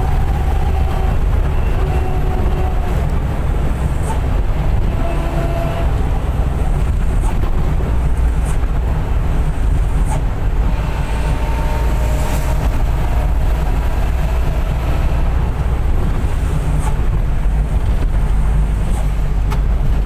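A bus driving along, heard from inside: a steady, heavy low engine rumble mixed with road and cabin noise.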